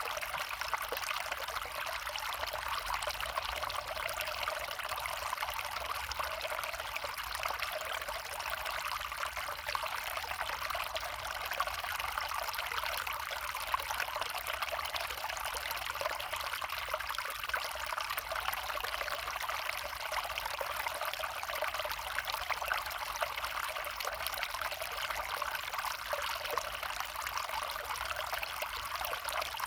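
Small brook flowing steadily.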